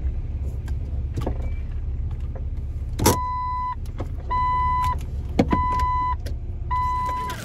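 A Jeep Wrangler's engine running low and steady, heard from inside the cabin, with a few sharp clicks. From about three seconds in, an electronic warning beep sounds four times, about once a second. The engine rumble stops right at the end.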